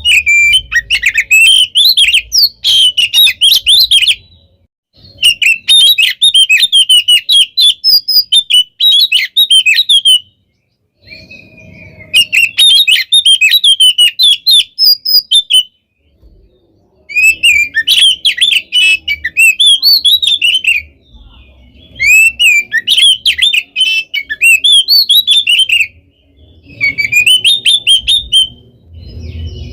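Oriental magpie-robin (kacer) singing in full voice: loud, fast phrases of rapid, jumping notes. Each phrase lasts a few seconds, with a short pause before the next, about six phrases in all.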